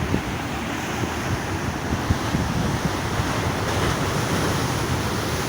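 Large Black Sea waves breaking on rocks, a continuous wash of surf that swells louder a little past the middle, with wind buffeting the microphone.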